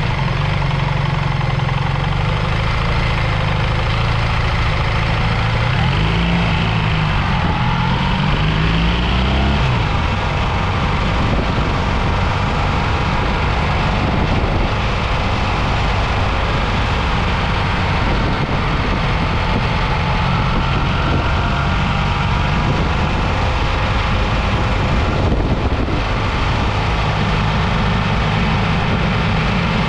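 BMW R 1300 GS boxer-twin engine running while the motorcycle is ridden, its pitch rising and falling between about six and ten seconds in.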